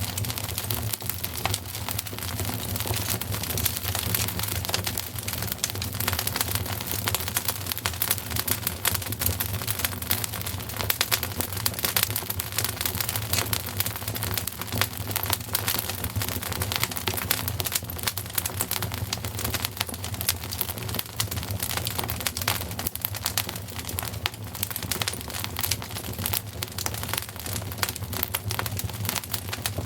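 Wood fire crackling steadily, with many small irregular pops and snaps over a low, steady rumble of the flames.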